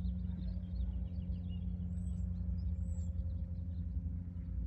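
Small birds chirping over a steady low hum, with two short, high whistled calls about two seconds and three seconds in.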